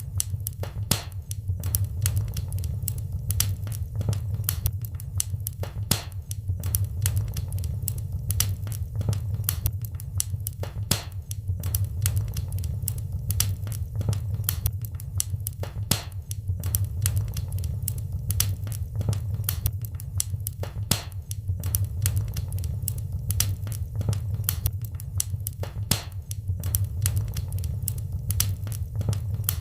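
Wood fire in a fireplace crackling steadily, with frequent irregular sharp pops and snaps over a low, even rumble.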